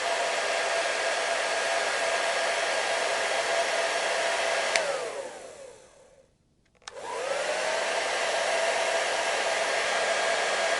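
Hair dryer blowing with a steady whine over its rushing air. About halfway through it cuts off with a click and its motor winds down to silence. Less than a second later it starts again with a click and spins back up to full speed.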